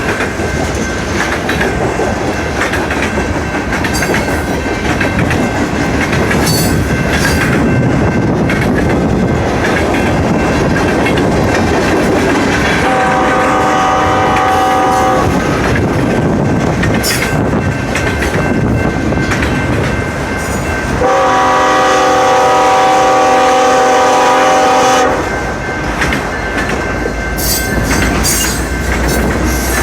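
Freight train rolling past with wheels clacking over the rail joints, while diesel locomotive horns sound a horn salute as two trains meet: a short multi-note chord about halfway through, then a longer, louder chord, and another starting right at the end.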